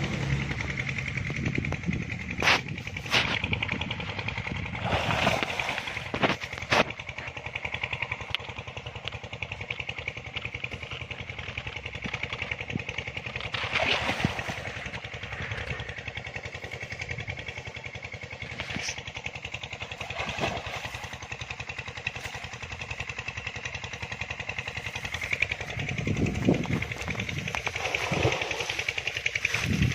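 A small engine running steadily, with a few sharp knocks in the first several seconds and another midway.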